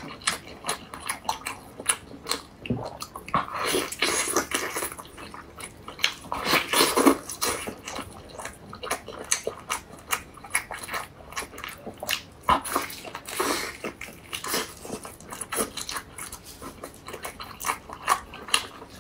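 Close-miked chewing and biting of sauce-coated meat: a run of short, irregular mouth clicks, with louder clusters of chewing about four and seven seconds in and again around thirteen seconds.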